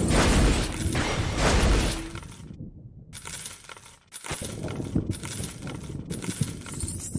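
Wind buffeting the microphone: a heavy low rumble and hiss surging in gusts, with the hiss cutting out abruptly twice.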